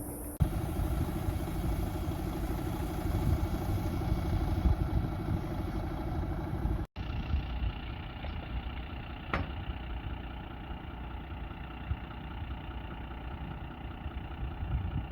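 Engine running steadily at idle. The sound cuts off abruptly about seven seconds in, and a second steady engine drone follows, with a single sharp click a couple of seconds later.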